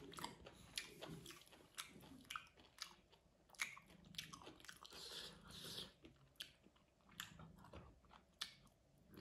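A person chewing a mouthful of rice and curry close to the microphone: quiet, irregular clicks and wet mouth sounds of eating.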